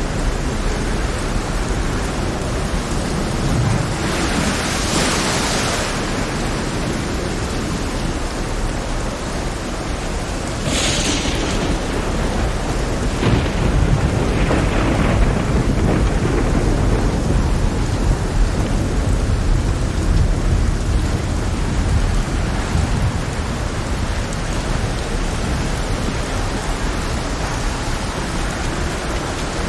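Heavy steady rain with thunder, loud crashes coming about five, eleven and fourteen seconds in, and a deep rumble through the middle.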